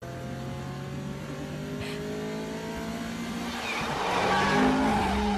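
Car engine accelerating, its pitch climbing steadily, growing louder about four seconds in with a rush of road and tyre noise.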